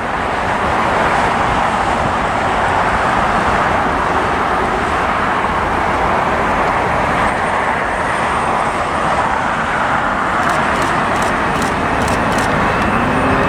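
Boeing 747 freighter's four jet engines at takeoff power: a loud, steady roar that swells over the first second and holds.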